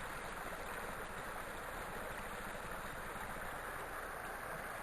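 Rain-swollen creek rushing hard: a steady, even rush of running water.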